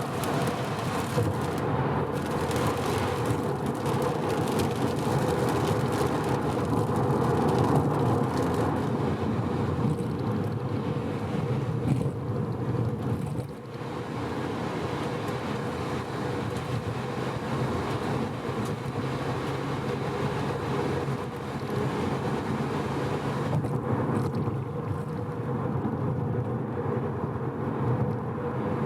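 Mazda FD3S RX-7's twin-turbo 13B rotary engine cruising at steady expressway speed, a constant engine hum over tyre and road noise. The engine is freshly rebuilt and being run in gently.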